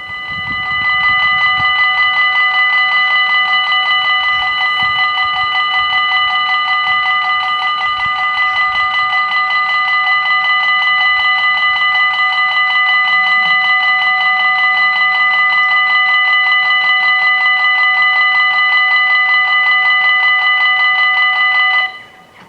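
Level crossing warning bells ringing in a fast, steady, rapidly repeating tone, signalling an approaching train, then cutting off suddenly near the end.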